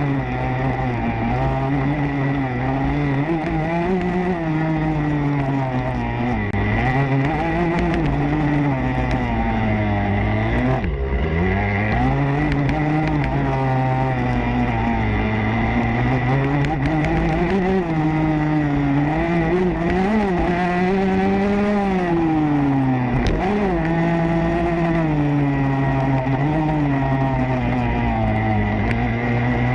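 Motocross bike engine revving hard and easing off again and again, the pitch climbing and falling with the throttle and gears. The revs drop sharply about eleven seconds in, then build back up. A steady high whine runs underneath.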